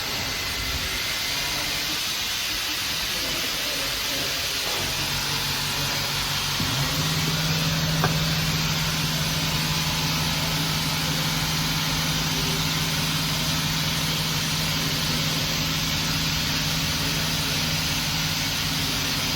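Steady hiss with a low machine hum from the mock ticket machine, coming in about five seconds in and rising slightly near seven seconds as the ticket is processed, with one faint click near eight seconds.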